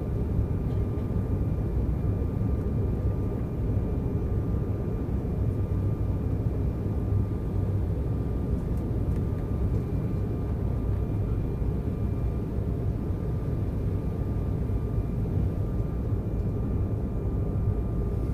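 Steady cabin noise of an Embraer 190 airliner in flight: a constant low roar from its General Electric CF34-10E turbofan engines and the airflow, with a faint steady whine on top.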